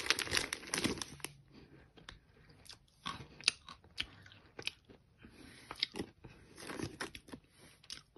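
Close-up chewing of hard, dry edible clay chunks, with sharp irregular crunches every half second or so. A plastic bag rustles briefly at the start.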